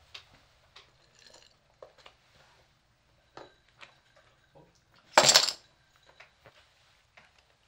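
Poker chips clicking lightly as they are handled, then a loud clatter about five seconds in as chips are tossed onto the table.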